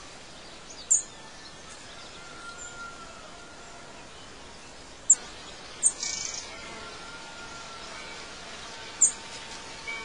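Birds chirping over a steady outdoor background hiss: four short, sharp high chirps (about a second in, twice between five and six seconds, and near nine seconds) with faint thin whistles in between.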